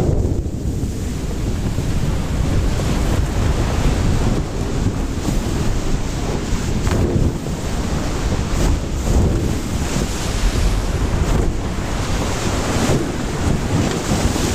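Wind buffeting the microphone over rushing sea water and waves: a steady, loud, noisy rumble that swells a little from moment to moment.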